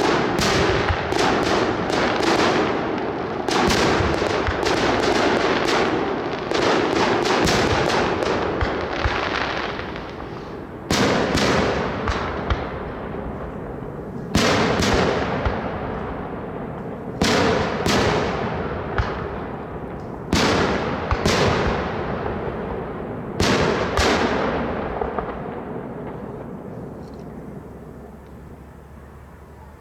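Aerial fireworks display. A rapid volley of bangs runs for about the first ten seconds. After that come heavy shell bursts, mostly in pairs, every two to three seconds, each leaving a rolling echo that dies away toward the end.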